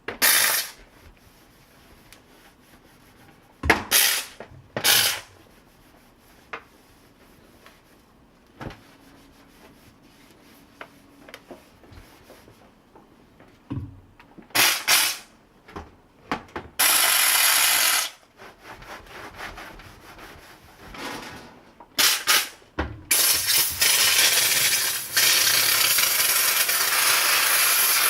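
Kärcher SC1 steam cleaner: a few clicks and rubbing knocks as it is handled, then a short burst of hissing steam about two-thirds of the way in and a steady hiss of steam over the last five seconds.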